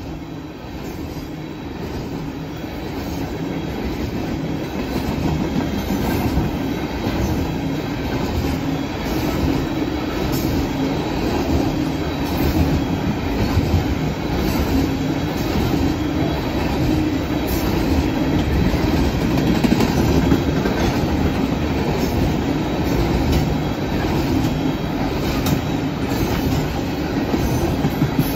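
Canadian Pacific freight train of tank cars rolling past: a steady rumble of wheels on rail with clickety-clack over the joints, growing gradually louder.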